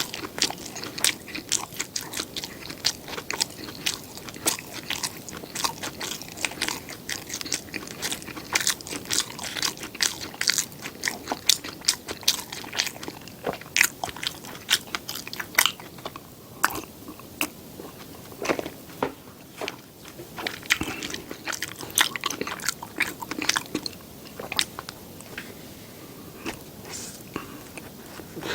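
Close-miked ASMR eating: a person biting and chewing food, with many sharp crackling clicks and crunches. The clicks come thick and fast for the first half and grow sparser, with softer chewing, in the second half.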